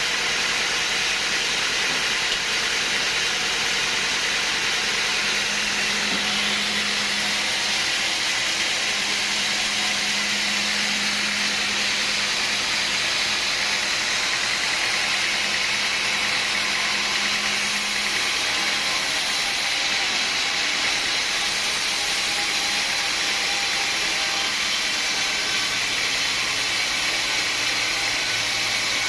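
Sawmill machinery running: a steady, loud noise with a strong hiss. A faint low hum joins for several seconds in the middle and again near the end.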